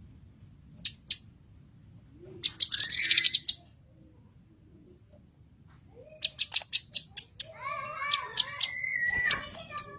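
Blue-masked leafbird (cucak kinoy) singing. Two sharp chips are followed by a fast buzzy rattle, then after a short pause a quick run of sharp chips leads into a varied warbling phrase of rising and falling notes.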